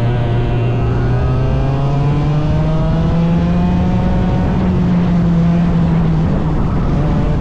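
Small 100cc racing engine running hard, its pitch climbing over the first few seconds, holding high, then dropping back about six seconds in.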